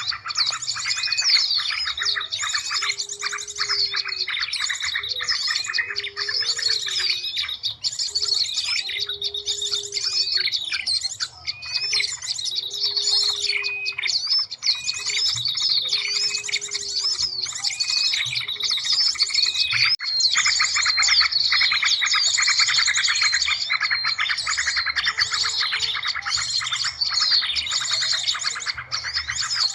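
Bird-lure recording of many small birds chirping and trilling at once, a dense overlapping chorus, with a lower repeated call about every second and a half through the first half.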